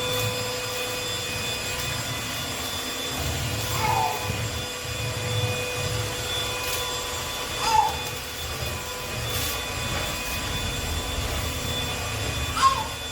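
A Trucozie cordless stick vacuum cleaner running steadily, its motor giving a constant hum with steady high tones over it. Three short chirps come about four seconds apart, the last one the loudest.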